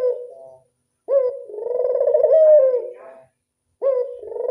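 Puter dove giving its 'anggungan' cooing song: a call ends just after the start, then a full call follows, and a third begins near the end. Each call opens with a sharp rising note and runs on as a long, rolling, trilled coo.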